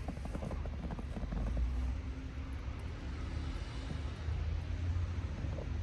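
Wind buffeting the microphone: a steady low rumble that swells and eases, strongest a little before halfway.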